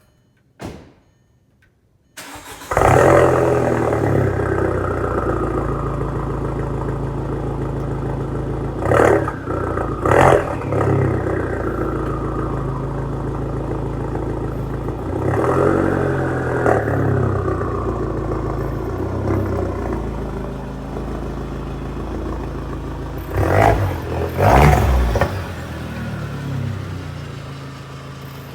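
Volkswagen Passat 1.8T turbocharged four-cylinder engine with a straight-piped turbo-back exhaust, cranking and catching about two seconds in. It then idles steadily, with a few quick revs: two around ten seconds in, two around sixteen seconds, and two more close together near the end.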